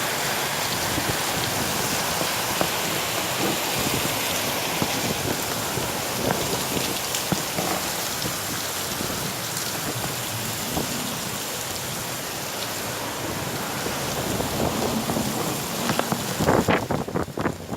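Hurricane Irma's heavy rain and wind: a steady, dense hiss of driving rain, with a few louder, uneven gusts buffeting near the end.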